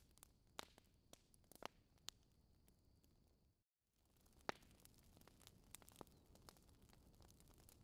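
Faint fireplace crackle: scattered small pops and clicks over a soft hiss. About halfway through the sound drops out completely for a moment, and a sharper pop follows soon after.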